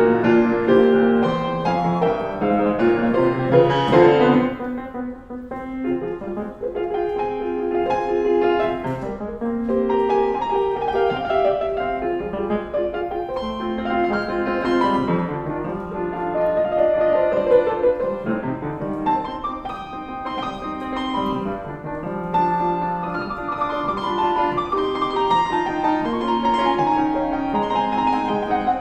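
Solo piano playing a dense, flowing piece in a classical style, with a fast run climbing into the high notes about four seconds in, then briefly softer before the playing fills out again.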